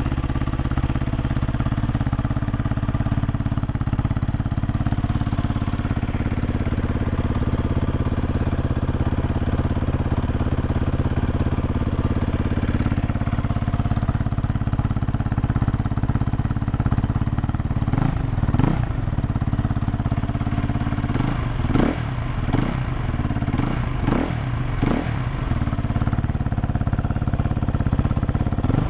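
2010 Husqvarna SMR 510 supermoto's single-cylinder four-stroke engine, through its twin exhaust, idling steadily. From about two-thirds of the way in, the throttle is blipped repeatedly in short revs that rise and fall.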